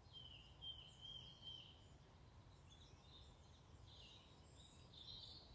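Near silence with faint birdsong: a run of short, high, level chirps in the first two seconds, then scattered calls later, over a low steady background rumble.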